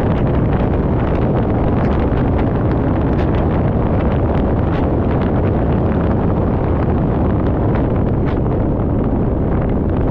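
Steady wind rush on a GoPro's microphone at riding speed on a motorcycle, with engine and road noise underneath.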